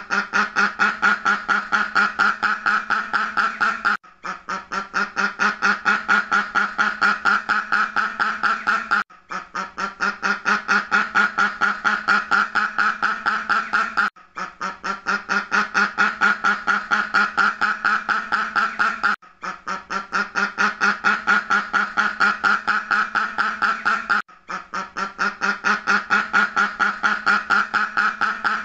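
A duck quacking in a fast, steady series of several quacks a second, in runs of about five seconds with a brief break between runs, as a looped sound effect.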